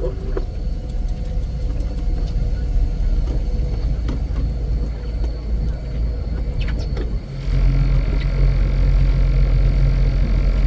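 Heavy vehicle engine running with a steady low rumble and a few light clicks; about seven seconds in it abruptly gets louder and a steady low hum sets in.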